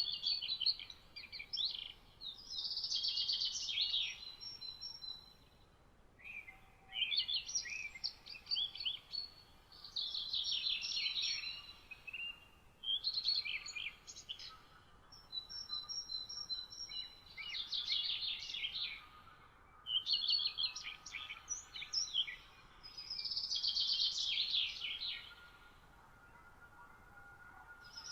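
Songbirds singing in the morning chorus. Short, rapid, twittering song phrases come again and again, one every two to three seconds, with thin high whistled notes between some of them.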